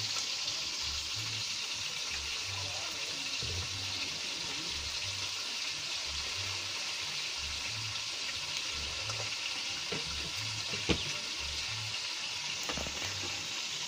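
Chicken frying in oil in a pan on a wood-fired stove, a steady sizzle, with liquid poured into the neighbouring pot partway through. A single sharp knock near the end.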